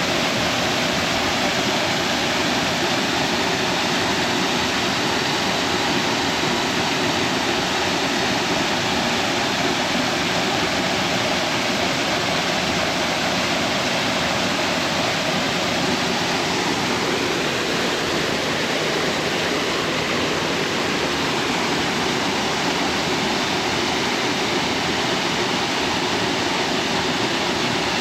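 Small waterfall on a creek: water pouring steadily into a pool, a loud, even rush with no change.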